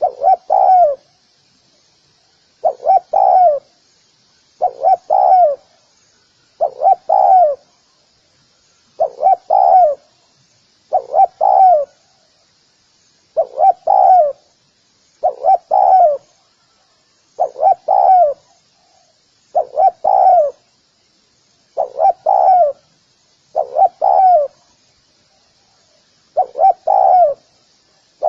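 Spotted dove cooing: short phrases of two or three low notes, repeated about every two seconds. This is the 'gù' coo that keepers play to provoke wild spotted doves into answering.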